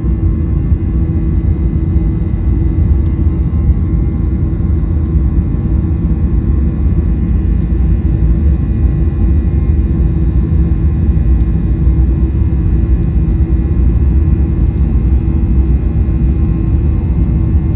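Steady cabin noise of a Boeing 737-900ER: a deep, even rumble from its CFM56-7B turbofan engines and the airflow, with a steady hum and no change in level.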